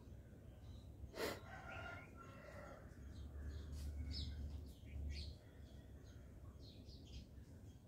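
Faint outdoor background with small birds chirping now and then, mostly in the second half. A sharp click about a second in, and a low rumble in the middle.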